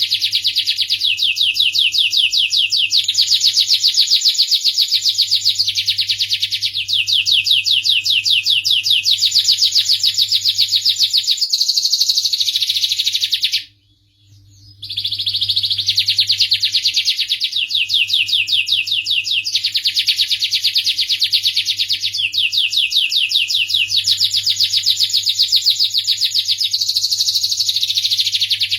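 Domestic canary singing long phrases of fast, rapid-fire trills, breaking off briefly about halfway through before carrying straight on.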